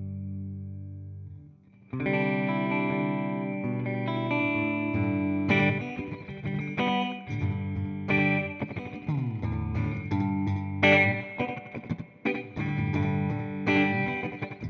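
Electric guitar (Fender Jazzmaster Modern Player with humbuckers) played through a TC Electronic Flashback delay pedal into a simulated Fender '65 Twin Reverb amp. A chord rings and fades nearly to nothing, then about two seconds in the playing resumes with struck chords and picked notes.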